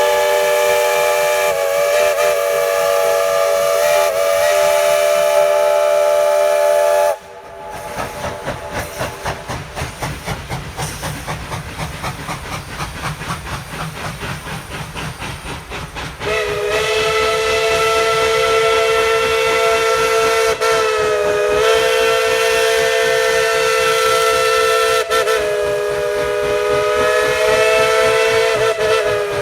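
Steam locomotive's multi-tone chime whistle sounding a long blast, then the engine's exhaust chuffing at a steady beat of about two to three a second, then a second long whistle blast that sags in pitch twice as it is worked.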